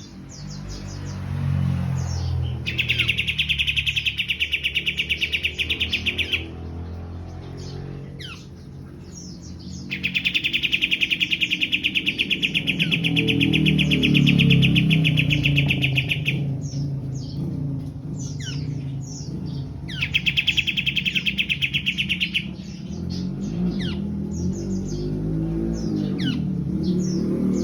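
Caged songbirds singing. A rapid, rattling trill comes in three long runs of several seconds each, with short chirps and whistles in between.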